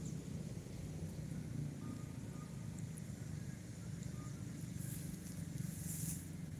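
Steady low rumble of distant car engines across an open lot, with a brief high hiss a little before the end.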